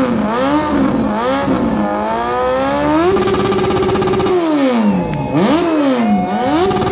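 Motorcycle engine revved hard through a loud exhaust: several quick blips up and down, then twice held at high revs for a second or more before dropping back.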